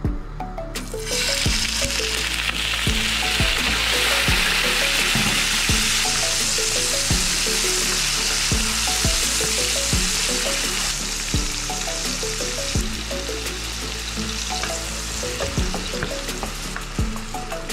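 Halved cherry tomatoes hitting hot sunflower oil in a nonstick wok and sizzling loudly, starting about a second in, while a wooden spatula stirs them; the sizzle eases somewhat in the later part. Background music with a steady beat plays underneath.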